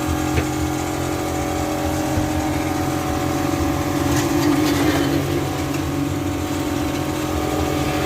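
Air-conditioning blower motor running steadily: a constant mechanical hum with steady tones.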